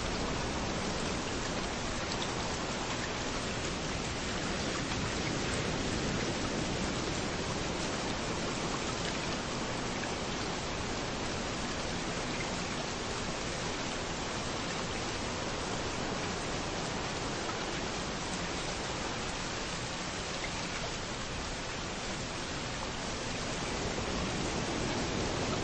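Steady rain falling with waves washing on a beach, a dense even hiss with slow, gentle swells in loudness.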